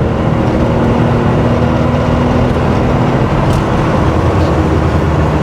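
Air-cooled flat-six engine of a 1979 Porsche 911 SC, rebuilt with a 3.2-litre short-stroke conversion and special exhaust, running steadily under load through a corner, heard from inside the cabin. Its note drops lower about three to four seconds in.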